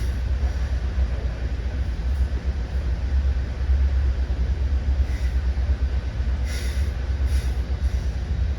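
Commuter train running at speed, heard from inside a passenger coach: a steady low rumble of wheels on rails, with a few short high hisses near the end.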